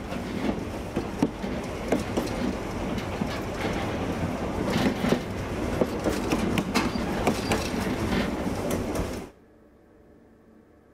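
Train running on rails: a steady rumble with rattling and sharp wheel-on-track clicks, cutting off abruptly about nine seconds in.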